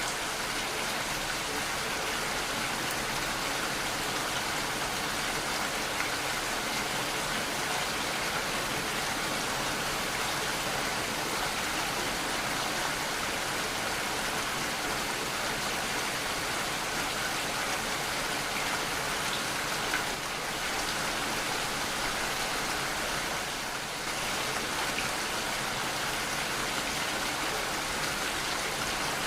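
Steady heavy rainfall, a continuous even hiss of raindrops on surfaces, dipping slightly for a moment a few times.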